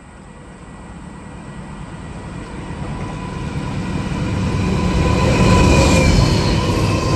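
A train approaching and passing close, its rumble growing steadily louder to its loudest about six seconds in.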